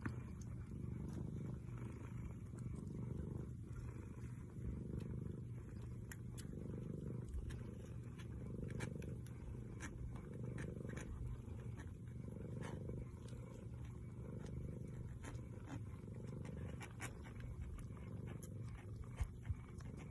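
Mother cat purring steadily, a low rumble rising and falling in slow waves, with faint small clicks over it.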